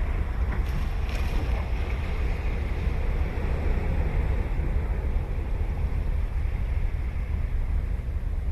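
Ocean surf washing on a sandy beach, with wind buffeting the microphone as a heavy low rumble.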